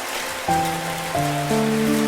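Slow piano music over steady rain. After a short gap in the notes, a new chord is struck about half a second in and further notes follow about every half second, each ringing on.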